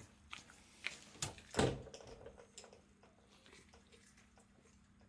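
Shiba Inu eating a rice ball: a few short, sharp mouth clicks and smacks as it chews, the loudest about one and a half seconds in, then only faint small noises.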